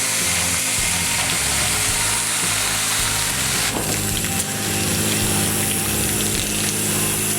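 Self-serve car wash high-pressure wand spraying hot water in a steady hiss, blasting gunk out of a coolant reserve tank (degas bottle).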